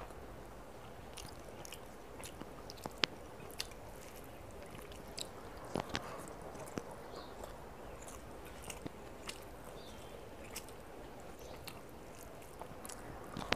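Close-miked eating with the hand: chewing and biting chicken and rice, with scattered short wet clicks and smacks from the mouth, a few sharper ones about three and six seconds in.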